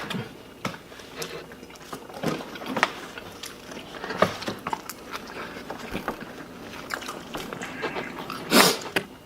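Close-up eating sounds: chewing and biting with scattered wet mouth clicks and smacks. A brief, louder rush of noise comes near the end.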